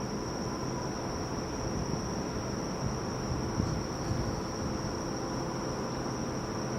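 Outdoor background noise: a steady high-pitched tone over a low rumble, with a faint low thump about three and a half seconds in.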